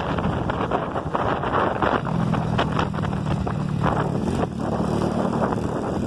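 Small motorcycle engine running steadily while riding, under wind noise on the microphone.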